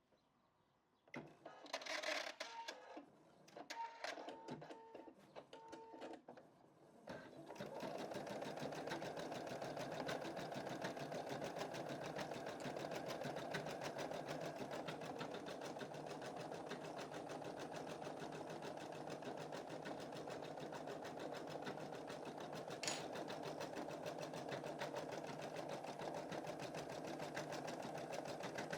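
Home embroidery machine: a few clicks and several short beeps, then about seven seconds in it starts stitching, a steady, rapid needle rattle that runs on evenly, with one sharper click partway through.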